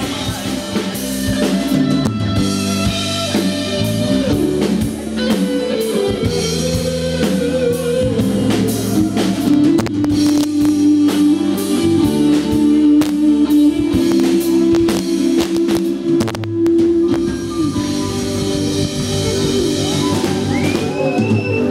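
Live rock band playing an instrumental passage: electric guitar over drum kit and bass guitar.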